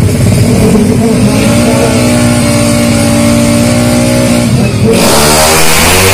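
Tuned 200cc automatic-scooter drag bike engine held at high revs on the start line, then launching about five seconds in, louder and rising in pitch as the bike accelerates away.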